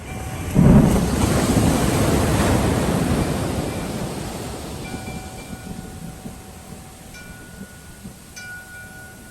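A sea wave breaks with a sudden loud rush about half a second in, then the surf's hiss fades away over the next few seconds. Wind chimes ring in several short clusters of clear tones in the second half.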